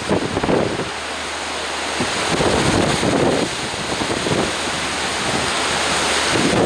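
Storm wind buffeting the microphone in irregular gusts every second or so, over a steady rushing hiss of wind and surf.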